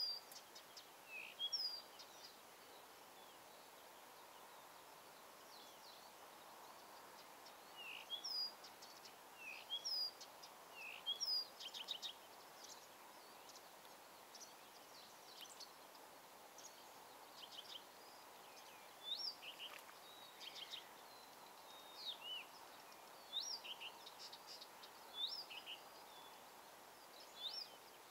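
Small birds calling: short, high chirps with a quick up-flick in pitch, repeated every second or two, with a few rapid clicky runs of notes, over a faint steady outdoor hiss.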